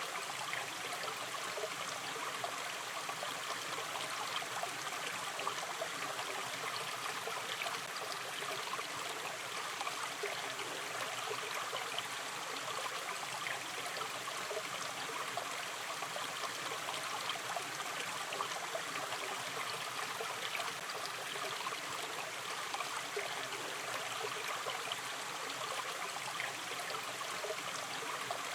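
Shallow river stream flowing steadily over stones, a constant gentle rush with fine trickling and bubbling.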